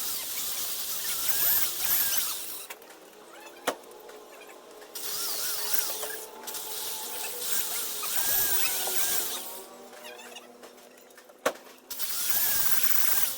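Engine valve being hand-lapped into its cylinder-head seat with grinding compound: a gritty rasping scrape with squeaks, in three bouts, with a sharp tap in each of the two pauses between them.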